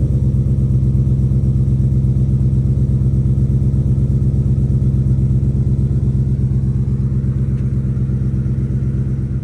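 Ford F-150 5.0L Coyote V8 running steadily through an aftermarket WWP stainless-steel catback exhaust, holding one engine speed with no revving.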